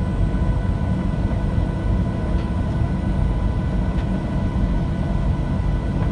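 Steady cabin noise inside a Boeing 737-700 in flight: a constant low rumble of airflow and engines with a few faint steady whining tones above it.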